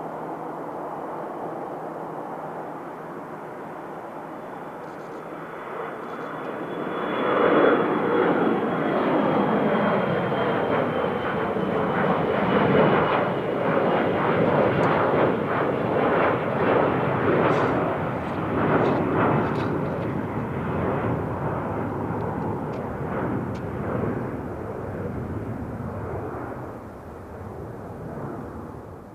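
Jet noise from a J-Air Embraer E170 and its two GE CF34-8E turbofans, swelling sharply about seven seconds in into a loud rush with a high whine that slowly falls in pitch as the jet passes, then fading near the end.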